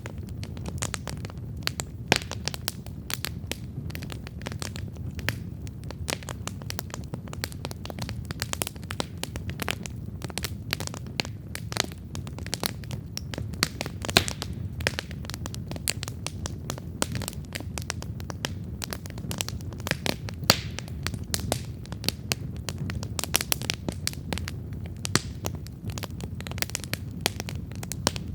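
Wood campfire burning, with dense, irregular crackles and occasional sharper pops over a steady low rumble of the flames.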